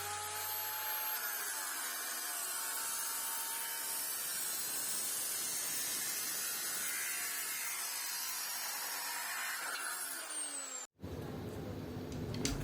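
A power tool running steadily for about eleven seconds, then cut off abruptly.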